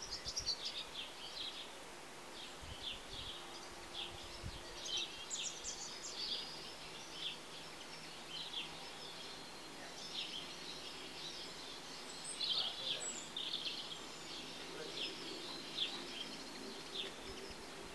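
Small birds chirping, with short, irregular high chirps coming one after another.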